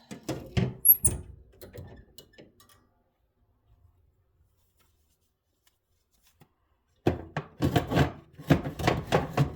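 Wooden knocking and clattering in two bouts: a quick run of knocks over the first two seconds or so, then quiet, then a denser run of knocks starting about seven seconds in.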